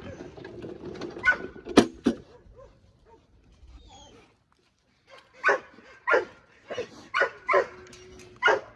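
A dog barking in short, sharp barks: two early on, a pause of a couple of seconds, then a quicker run of about six barks.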